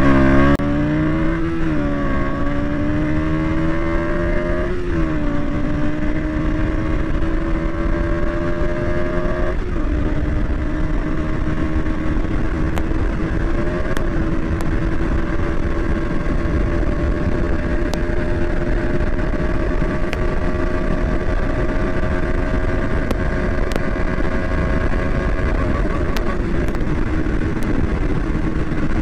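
KTM Duke 200's single-cylinder engine under hard acceleration, its pitch climbing and then dropping at each of several upshifts in the first fifteen seconds or so, each climb slower than the last. It then holds a steady high pitch in top gear at speed, with wind rushing over the microphone.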